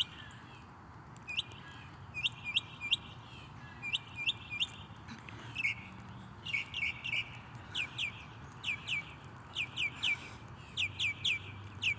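A small songbird chirping: short, high, down-slurred notes in quick runs of two or three, repeated over and over.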